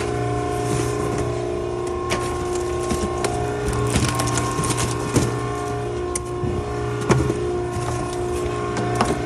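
Maren baler's hydraulic power unit running with a steady hum, and from about two seconds in, repeated sharp cracks and snaps as the load is crushed.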